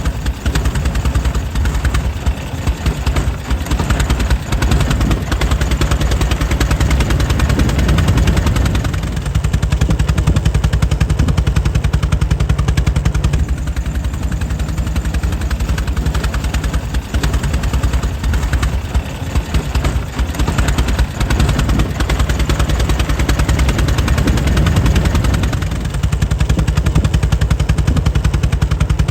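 Air-cooled 1904 Mitchell engine running steadily, its firing beats coming as a fast, even rapid-fire train of pops.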